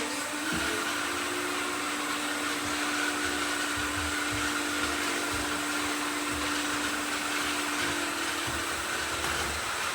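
Several robot vacuum cleaners running together: a steady whir of motors and suction with a constant hum and a hiss.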